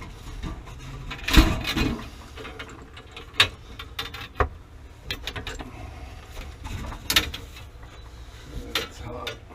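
Hand tools and metal plumbing fittings clicking and clanking as water heater supply connections are put on, with irregular sharp knocks and a louder clatter about a second and a half in.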